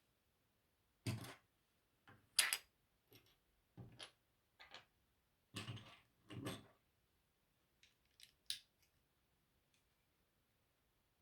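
Plastic Lego pieces being handled and pressed together: a series of separate short clicks and rattles, with quiet gaps between them.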